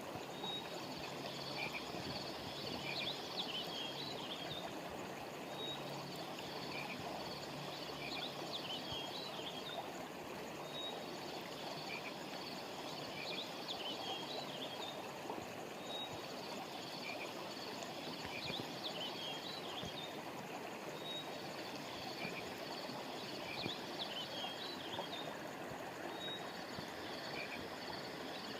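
Steady rush of a flowing river, with high chirping animal calls that come back in the same cluster about every five seconds.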